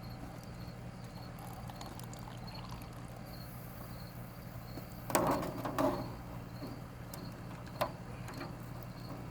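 Crickets chirping steadily, with a brief splash of water about five seconds in, like pasta or a strainer dipped into a container of water.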